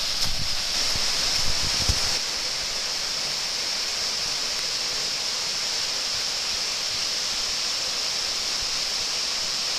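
Waterfall rushing steadily, with a few low bumps on the microphone in the first two seconds.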